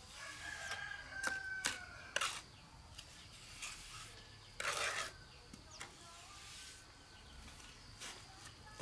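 A rooster crows once, faintly, lasting about two seconds near the start, among short scraping sounds and a couple of sharp knocks.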